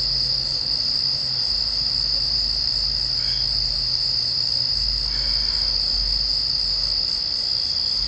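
Steady chorus of night insects, crickets trilling continuously in one unbroken high-pitched note, with a faint low hum underneath.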